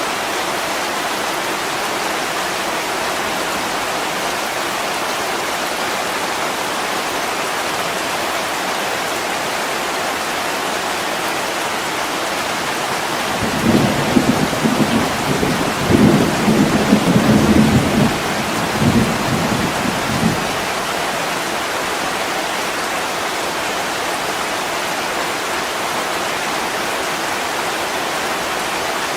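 Steady heavy rain on window glass, with a roll of thunder in the middle: a low rumble that swells and fades several times over about seven seconds.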